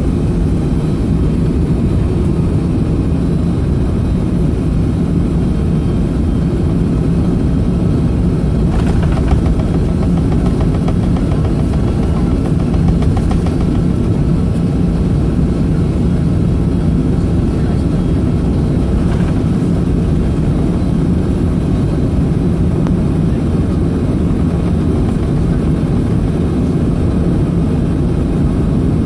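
Steady low cabin rumble of a Boeing 757's Pratt & Whitney PW2037 engines running at ground idle during taxi, heard from inside the cabin, with faint brief rattles about nine and nineteen seconds in.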